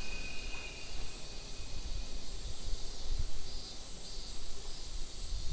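Insects chirring in steady high-pitched bands that swell and fade, over an uneven low rumble. A faint wheel squeal from the passing freight train dies away in the first second.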